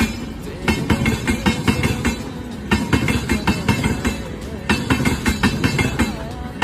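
Train wheels clattering over rail joints: a burst of rapid metallic clicks about every two seconds over a steady rumble, with some thin high-pitched ringing.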